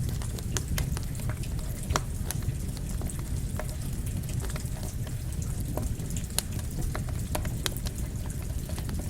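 Campfire crackling, with irregular sharp pops and snaps over a steady low rush, mixed with falling rain.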